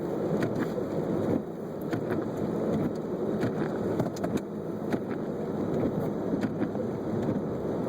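Car cabin noise from a two-wheel-drive car in a sleet storm: the engine runs steadily under a noisy hum, with scattered light ticks. The hum drops slightly about a second and a half in.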